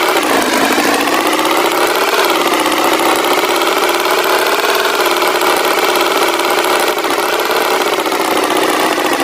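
Cartoon tractor engine sound effect running steadily, its pitch rising and falling a little.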